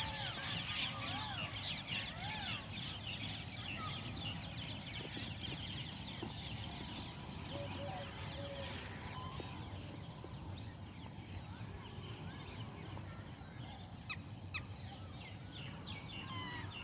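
Birds calling. A few rising-and-falling calls come in the first couple of seconds, followed by scattered short chirps and notes over a steady low background hum.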